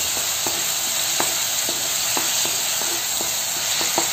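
Chopped tomatoes and green chilli sizzling in hot oil in a kadhai, with a steady hiss, while a wooden spatula stirs them, tapping and scraping against the pan about twice a second.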